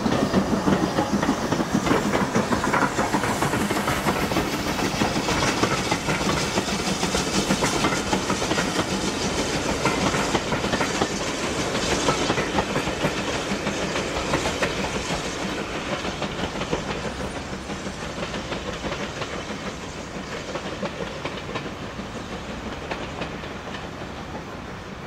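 Steam-hauled passenger train passing, with the wheels clicking rapidly over the rail joints. The sound is loudest in the first half and fades over the last ten seconds or so as the train draws away.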